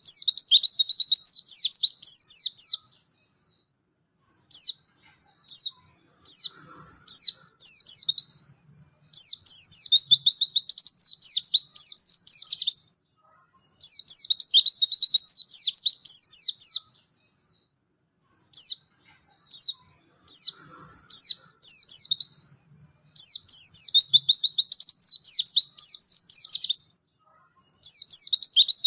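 White-eye (pleci) singing energetically: repeated bouts of fast, high twittering, each a few seconds long and separated by short pauses.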